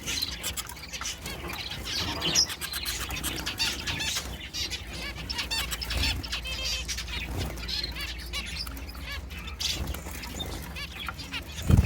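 A cage of small finches fluttering, rustling and pecking, with many short high chirps and cheeps. A single thump near the end.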